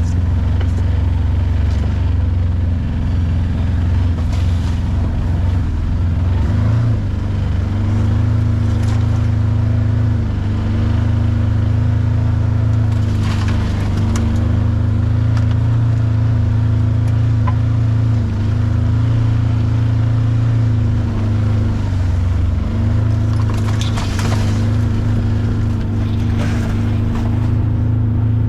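Side-by-side UTV engine running steadily at low trail speed, its pitch stepping up and down a little as the throttle changes, with a few short sharp noises over it.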